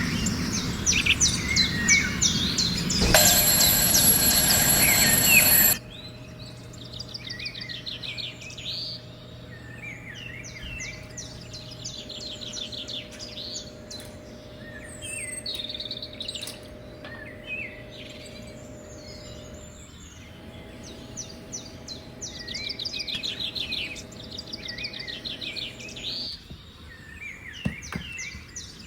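Small birds chirping and trilling over and over. In the first seconds a loud noisy sound with a high steady ringing tone lasts about three seconds and then cuts off suddenly. A faint steady hum then runs under the birdsong until it stops near the end.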